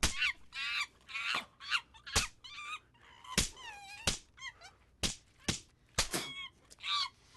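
A monkey screeching and chattering amid a rapid series of sharp hand slaps, about eight smacks spread over six seconds, traded back and forth between a man and a capuchin monkey.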